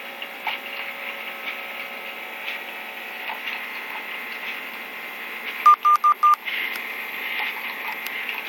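A coffee machine gives four quick electronic beeps, a little over halfway through, over a steady hiss.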